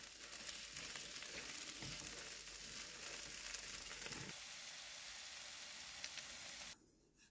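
Chicken and rice frying in a non-stick pan on a portable gas stove, sizzling steadily as a spatula stirs it, with a couple of soft knocks. The sizzle cuts off suddenly near the end.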